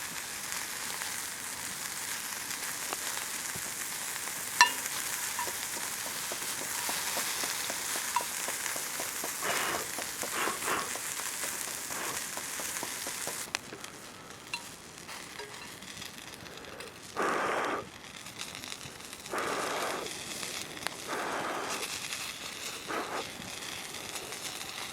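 Cooking over a campfire: a steady sizzling hiss with a single sharp crack about four and a half seconds in, cutting off abruptly about halfway through. After that it is quieter, broken by a few short rushing bursts of noise, each under a second long.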